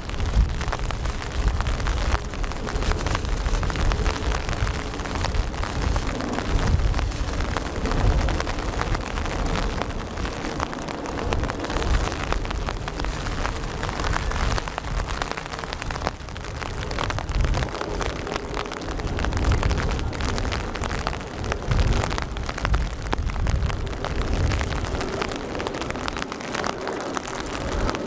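Steady rain falling and pattering, with a low rumble that swells and fades at irregular intervals and a faint steady hum beneath.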